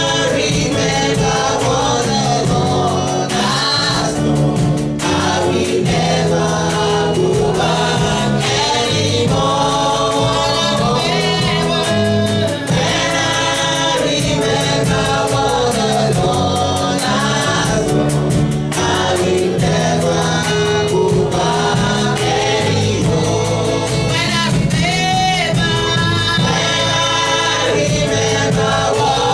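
A choir singing a gospel-style worship song, with sustained low accompaniment under the voices.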